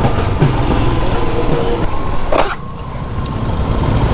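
Motorcycle engine running during a ride, with steady noise over it and a sharp knock about two and a half seconds in.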